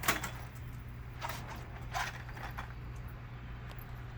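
A Solax Transformer folding mobility scooter being tipped over onto its back: a sharp knock at the start, then a couple of softer clunks about one and two seconds in, over a steady low hum.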